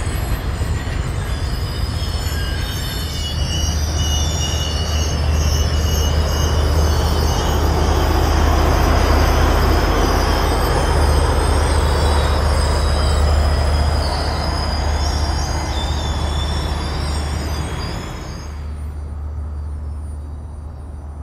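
A Union Pacific train with the Big Boy 4014 steam locomotive and diesel units rolls past: a deep, heavy rumble with steel wheels squealing on the rails in several high, wavering tones. The sound drops away suddenly near the end as the passenger cars go by.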